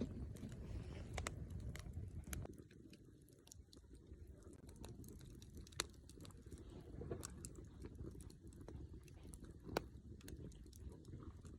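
Wood campfire crackling faintly: scattered sharp pops and ticks over a low hiss, with two louder pops about six and ten seconds in.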